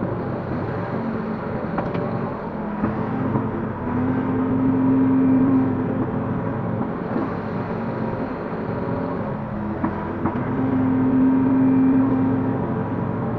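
Link-Belt 145X3E hydraulic excavator's diesel engine running, pulling harder and louder twice, about four seconds in and again about ten seconds in, as the hydraulics take load while it digs and swings. A few faint knocks.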